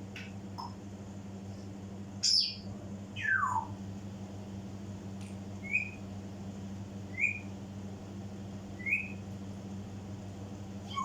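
African grey parrot whistling: a sharp high call, then a long falling whistle, then three short rising chirps about a second and a half apart.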